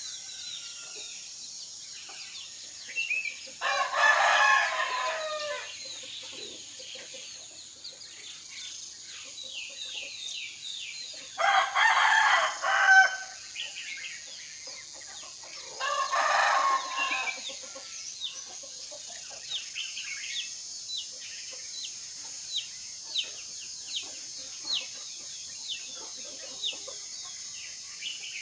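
Rooster crowing three times, each crow lasting a second or two, with small birds chirping steadily in the background.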